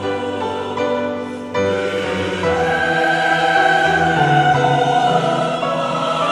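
A choir singing held, sustained chords; the sound dips briefly, then swells fuller and louder about a second and a half in, with a high note held over it.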